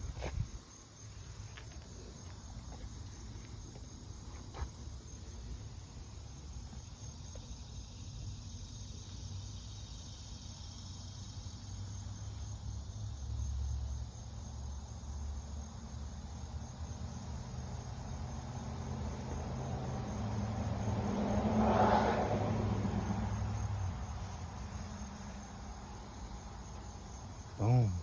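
Crickets chirping steadily over a low background hum, with a vehicle passing that rises to a peak a little past two-thirds of the way in and fades away. A short low tone sounds just before the end.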